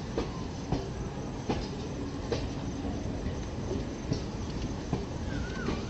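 Passenger coaches of an express train rolling past along a station platform: a steady rumble with wheels clacking over rail joints about once a second.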